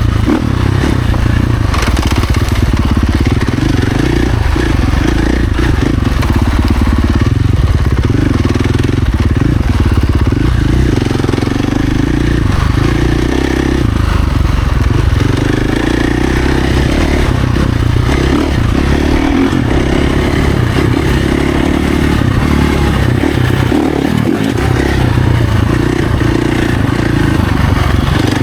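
Husqvarna FC450's single-cylinder four-stroke engine running hard as the dirt bike is ridden off-road, its pitch and level rising and falling with the throttle.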